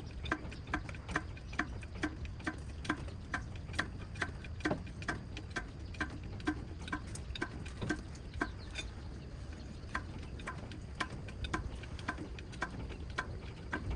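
A steady run of short, sharp clicks or taps, about two to three a second, over a low background hum.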